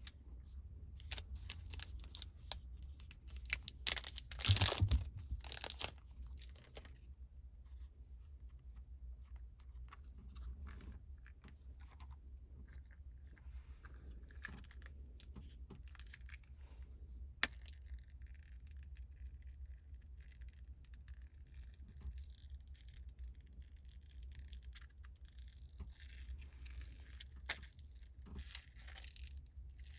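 Close-up handling noises: rustling and tearing like packaging being torn open, loudest about four to five seconds in, then a few isolated sharp clicks. A low steady hum runs underneath.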